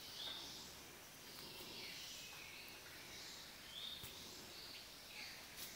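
Faint outdoor ambience with a few short, high-pitched chirps of small birds scattered through it and a couple of faint clicks near the end.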